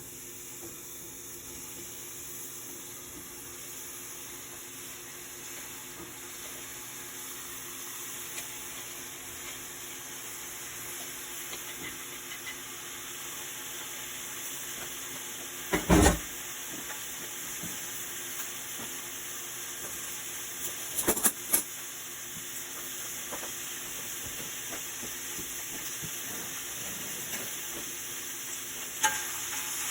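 Food sizzling as it fries in a pan, a steady hiss that slowly grows louder. A loud knock about halfway through, a quick clatter a few seconds later, and a smaller knock near the end.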